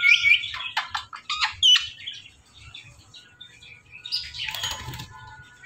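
Ringneck parakeet chirping, with a run of short squeaky notes and rising whistles over the first two seconds. About four seconds in comes a brief rustling burst.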